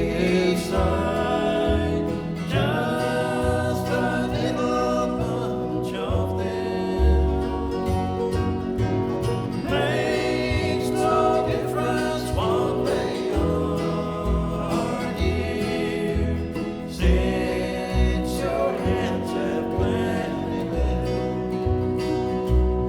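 Bluegrass band playing: a sung line ends about a second in, then plucked guitar and banjo go on over a walking bass.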